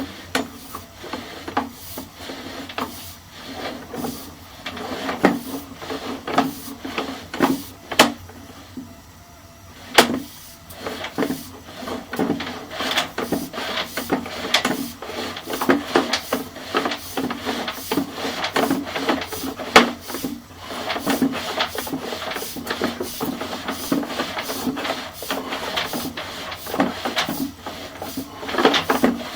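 Sewer inspection camera being pushed along a drain pipe: irregular clicks and knocks, several a second, over a faint low hum.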